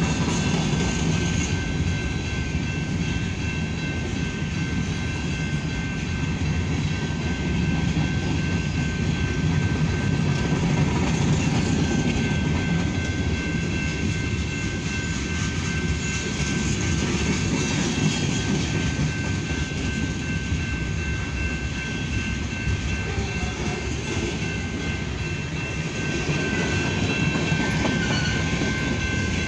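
Freight cars rolling steadily past at close range: a continuous low rumble of steel wheels on rail with wheel clatter. A few steady high-pitched tones run over it throughout.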